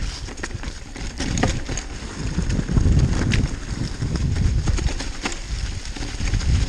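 Downhill mountain bike riding over a wet, rocky trail: tyres rolling over loose stones, and the bike rattling with irregular sharp knocks. Wind rumbles on the microphone.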